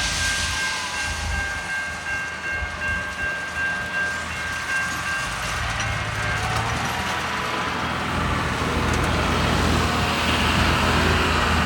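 Ballast regulator working along the track: its diesel engine running steadily, with a steady high tone that stops about six seconds in, and a hissing, scraping noise that grows louder toward the end.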